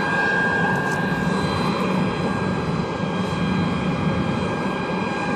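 Jet airliner's engines running on the ground with a steady high whine over a broad rumble.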